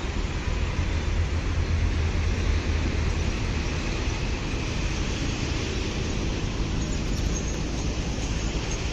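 Steady low rumble and hiss of a train on the railway line, heaviest in the first few seconds and easing a little after.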